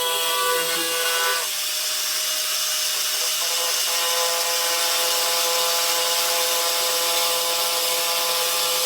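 Power tool fitted with a slotting cutter, running with a steady whine and cutting into a wooden cabinet door. About a second and a half in, a rough rushing sound of wood being cut rises over the whine, then the whine comes back strong.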